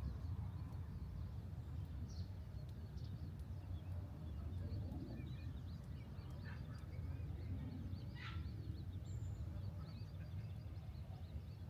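Small birds chirping and trilling on and off, with a stronger call about eight seconds in, over a steady low rumble.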